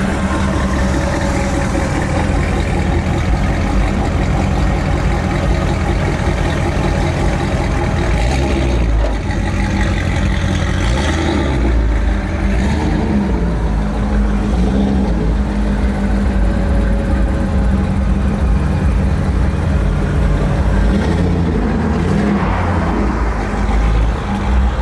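Car engine running with a loud, deep exhaust rumble, its pitch rising and falling a few times as the engine is revved.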